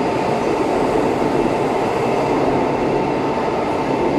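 E4 series Max double-decker Shinkansen pulling out of the platform: a steady rumbling, rushing train noise with a constant high tone running through it.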